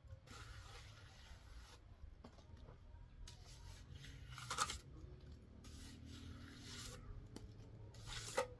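Hand-work noise: several rubbing, scraping strokes, each lasting about a second, with two sharp knocks, one about halfway through and one near the end.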